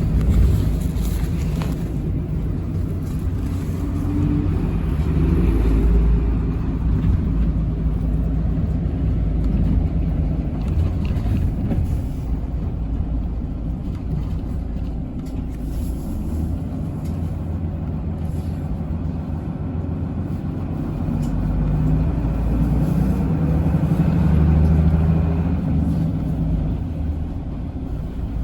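A bus's engine running and its road rumble, heard from inside the moving bus; the engine note swells and rises in pitch twice, briefly at about six seconds and for a few seconds near the end, as the bus picks up speed.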